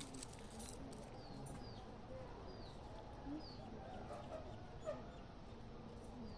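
Faint outdoor background with a few short, high, falling animal chirps spaced a second or so apart.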